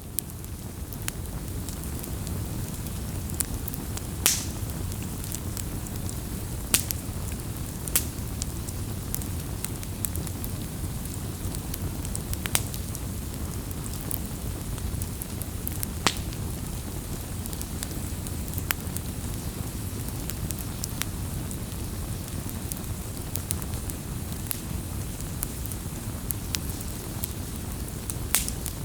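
Wood fire burning: a steady low rush of flames with sharp crackles and pops at irregular intervals, the loudest pops about four seconds in and near the end.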